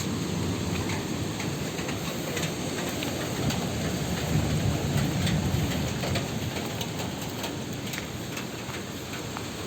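Steady heavy rain falling, with many single drops striking close by, over a low rumble of thunder that swells midway and slowly dies away toward the end.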